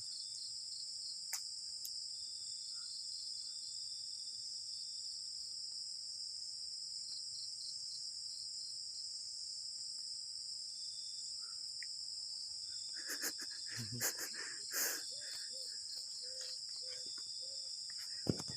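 A chorus of crickets and other night insects trills steadily and high, with shorter chirping pulses in and out. A few faint knocks and brief sounds come over the last five seconds.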